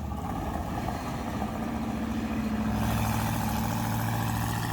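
Monster truck engine running at a steady, deep rumble that grows slightly louder and rougher about halfway through.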